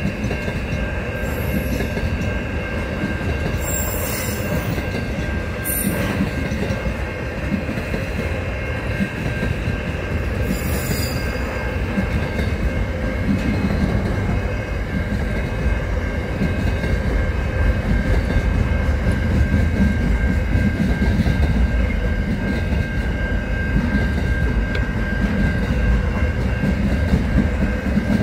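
Freight train's container wagons rolling past at speed: a continuous rumble and rattle of wheels on rail with a thin, steady high-pitched squeal, a little louder in the second half.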